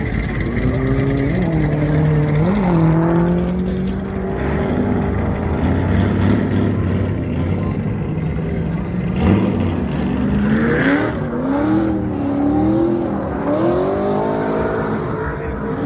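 Car engines revving, the pitch rising and falling in repeated swells over a steady rumble of engine and tyre noise, heaviest near the start and again in the last few seconds.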